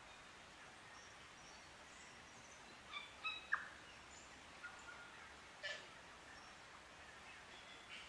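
Native New Zealand forest birds calling over a faint hiss: a few scattered short chirps, then a quick cluster of clear whistled and clicking notes about three seconds in, with single calls after the middle and near the end.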